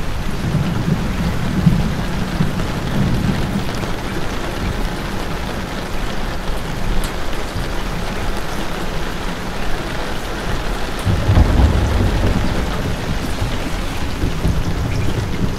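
Steady heavy rain falling and pattering on surfaces, with two spells of low rumble, one in the first few seconds and one about eleven seconds in.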